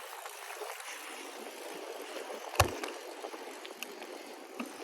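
Steady rushing noise of a bicycle being ridden: tyres rolling and air moving past. A single sharp knock about two and a half seconds in.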